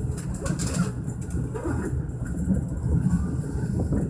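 Tobu 10030 series electric train running on the rails, heard from inside the driver's cab: a steady low rumble of wheels and running gear.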